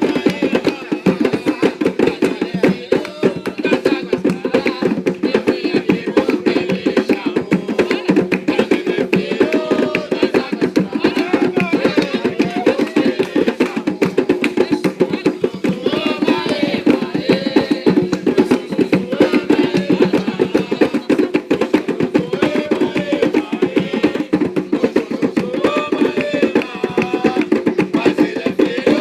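Atabaque hand drums playing a fast, dense, unbroken rhythm for a ritual ponto, with voices sounding over them at times.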